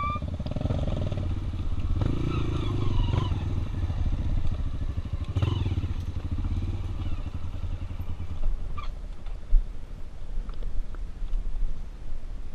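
Single-cylinder trail motorcycle engine running, revving up and easing off about two seconds in and again about five seconds in. A few sharp knocks come near the end.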